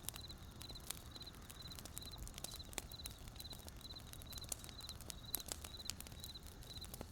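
Wood fire crackling with irregular sharp pops, over a cricket chirping steadily: a short high trill of a few pulses repeating a little less than twice a second.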